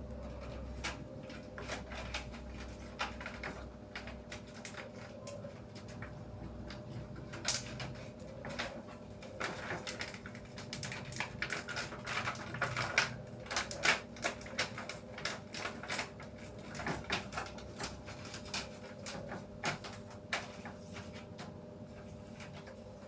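Irregular clicks, taps and knocks of small parts and panels being handled and set down during an LED TV backlight repair, over a faint steady hum.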